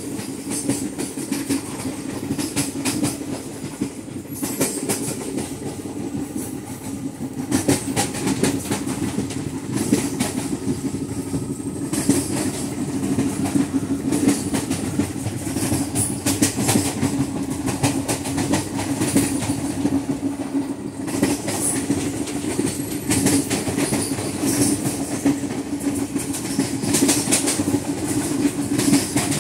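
Indian Railways ICF passenger coach running fast on the track, heard from on board: a continuous running rumble with a steady hum and repeated sharp clicks and knocks from the wheels over the rails.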